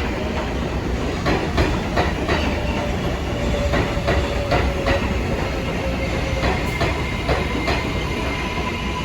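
R188 subway train running along elevated track, its wheels clacking over rail joints in a regular rhythm above a steady rumble, with a faint whine that slowly falls in pitch.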